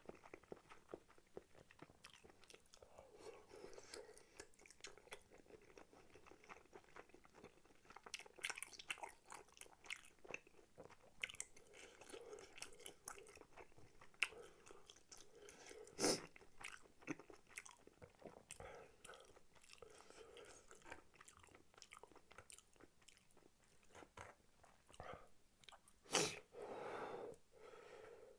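Close-miked chewing of spicy tteokbokki rice cakes: a steady run of wet mouth smacks and small clicks, with two sharper, louder clicks about halfway through and near the end.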